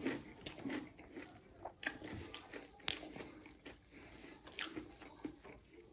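A person chewing a mouthful of food with faint, irregular crisp crunches of fried kerupuk crackers. There is one sharper click about three seconds in.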